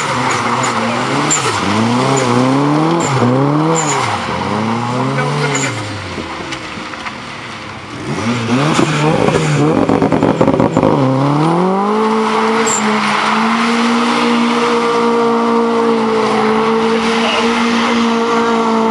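Toyota Celica GT-Four ST205's turbocharged four-cylinder engine revving up and down in quick blips while the car slides, with tyres squealing. About halfway through it is held at steady high revs for several seconds as the car spins doughnuts in its own tyre smoke.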